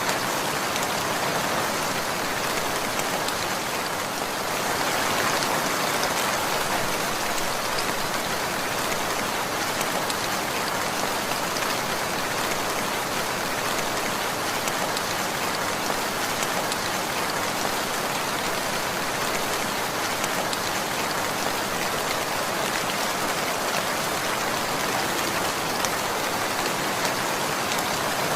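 Steady rainfall: dense, even hiss of rain with many small drop ticks on a surface, swelling slightly a few seconds in.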